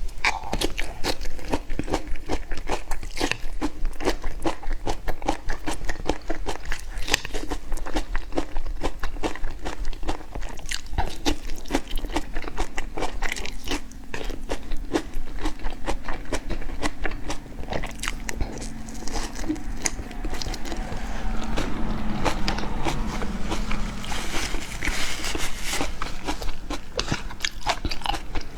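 Close-miked eating: a person biting and chewing crunchy food, with dense, irregular crunches and wet clicks throughout.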